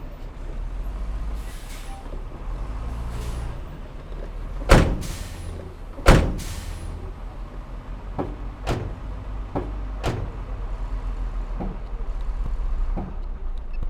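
Heavy diesel earthmoving machinery running with a steady low rumble, with two loud bangs about five and six seconds in, then several lighter knocks.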